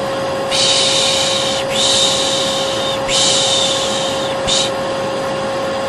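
A vacuum cleaner running with a steady hum. Over it a voice repeatedly shushes 'shhh' to soothe a baby: three long shushes of about a second each, then a short one.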